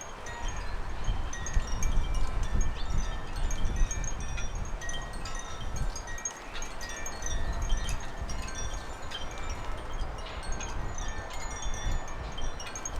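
Wind gusting on the microphone in uneven, rumbling buffets, with many short high ringing notes scattered through it.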